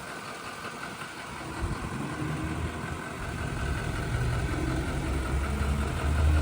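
Duramax 6.6 L V8 turbodiesel of a pickup idling steadily, its low hum growing louder over the second half.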